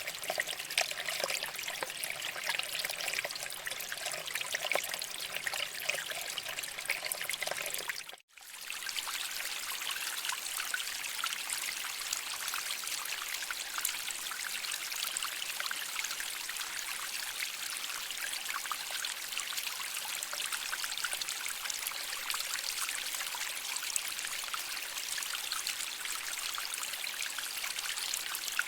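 Water flowing over rocks in a stream, a steady trickling rush. About eight seconds in it cuts out for a moment and comes back brighter and hissier.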